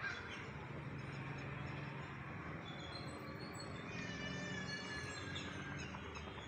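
Birds calling over a steady low hum and background noise: short high chirps, and about four seconds in a longer call of about a second with many overtones, falling slightly in pitch.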